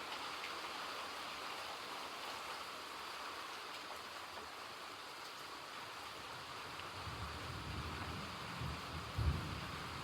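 Steady rain falling, with a low rumble of thunder building about seven seconds in and peaking in a short, loud crack near the end.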